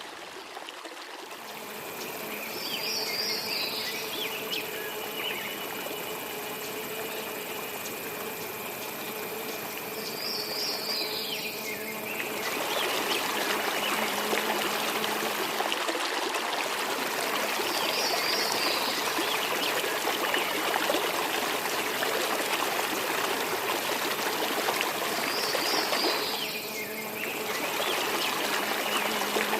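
Flowing water of a forest waterfall and its stream, a steady rushing hiss that grows louder about twelve seconds in. A short high chirp comes four times, about every eight seconds.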